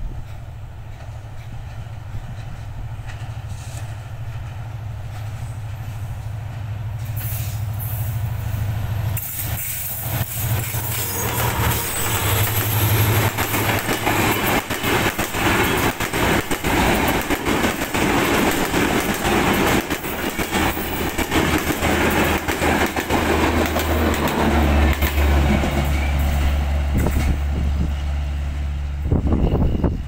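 Diesel-hauled passenger train approaching and passing close by. The locomotive's low engine drone grows first, then from about ten seconds in the coaches' wheels clatter over the rail joints in a dense, rapid rhythm as the train goes by.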